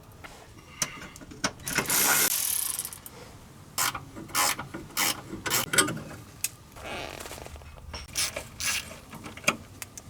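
Hand-tool work on metal: a second-long scraping rasp about two seconds in, then a string of short, sharp mechanical clicks, roughly two a second, with another soft rasp partway through.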